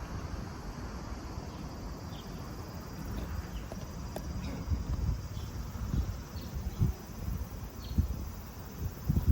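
Wind rumbling on the microphone outdoors, with scattered faint short high chirps and a few soft knocks in the last few seconds.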